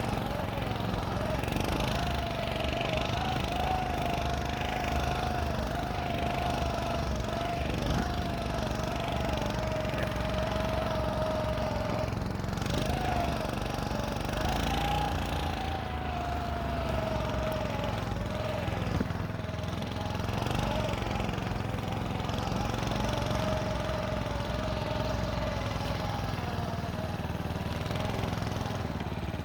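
Small engine of a motorized snow scooter running under way, its note wavering up and down as the throttle and load change.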